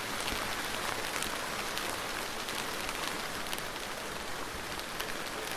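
Soft rain falling steadily: an even hiss with many small, separate drop taps scattered through it.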